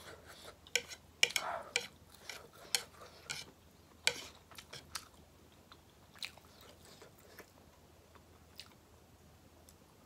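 A person biting and chewing food, with sharp crunchy clicks. The clicks come thick and fast for the first five seconds, then thin out to a few.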